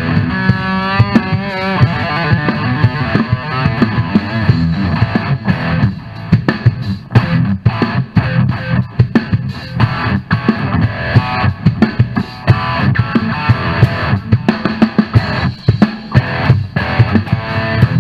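Hard rock instrumental: an electric guitar plays a lead line with wavering, bent notes near the start, over a driving drum kit and bass.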